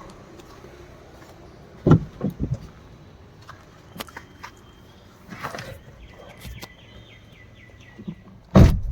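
Footsteps and a few knocks, then a loud solid thump near the end, typical of a car door of a Chevrolet Enjoy being shut. A rapid high chirping runs through the background for a couple of seconds shortly before the thump.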